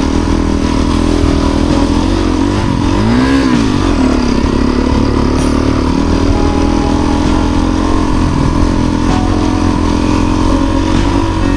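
Motorcycle engine running steadily at low speed, with one brief rev that rises and falls about three seconds in.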